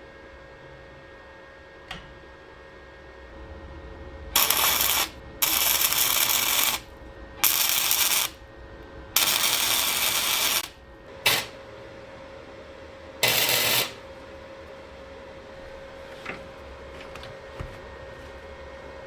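Six short bursts of loud hissing, each starting and stopping abruptly and lasting from a fraction of a second to about a second and a half, with a few faint metallic clicks before and after. A faint steady hum runs underneath.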